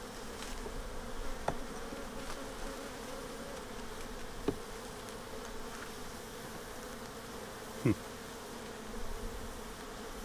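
Honeybees buzzing steadily around an open hive during an inspection, with a few short sharp knocks, the loudest near the end.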